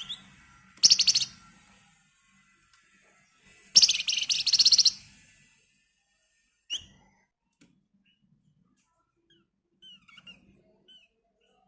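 Flamboyan (wergan Jawa) songbird giving two loud, fast, tight rattling trills, "ngebren rapat", about a second and four seconds in. A short sharp note and a few faint chirps follow.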